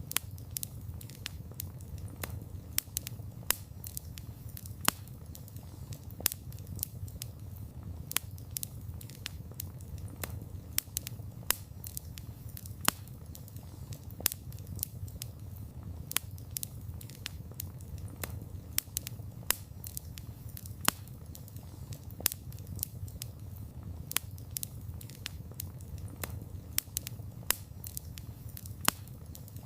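Wood campfire burning: a steady low rumble of flame with many irregular sharp crackles and pops, several a second.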